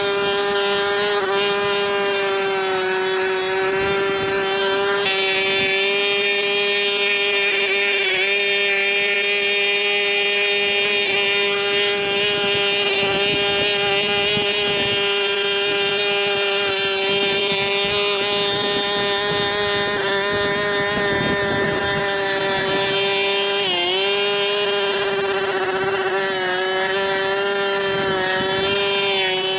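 A small engine running steadily at high speed with a strong, even whine. Its pitch sags briefly once near the start and again near the end.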